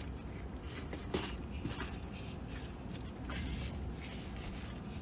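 Quiet chewing of a sub sandwich with a few faint rustles of paper and napkin, over a low steady rumble inside a vehicle cabin.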